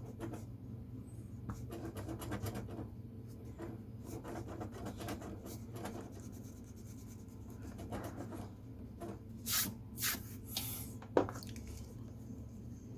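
Drawing strokes on paper: quick, repeated light scratching of a pen on a sheet, with a few longer, louder swishes and a small click near the end, over a steady low hum.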